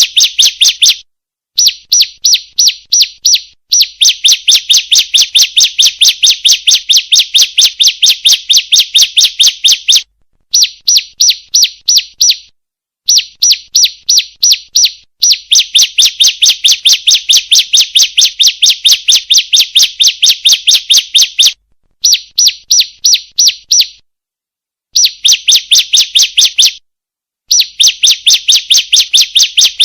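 Female bar-winged prinia (ciblek) calling: fast runs of sharp, even chirps, about six a second, in bursts of a few seconds broken by short pauses.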